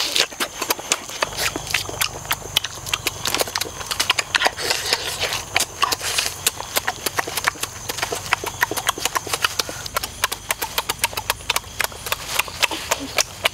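A person chewing and biting roast chicken with loud open-mouthed lip-smacking: a fast, irregular run of smacks and clicks.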